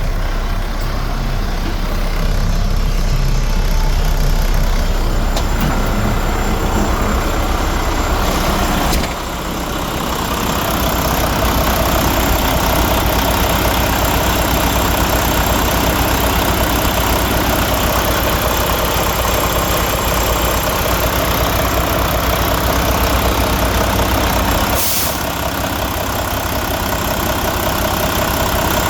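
Mack MP8 13-litre inline-six diesel engine running steadily at idle, its loudness dipping briefly about nine seconds in and shifting again near the end.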